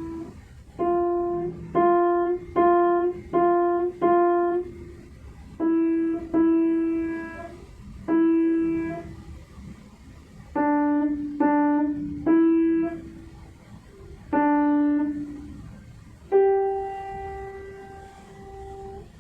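Piano playing a slow melody one note at a time, each note struck and left to ring down, with a long held higher note near the end.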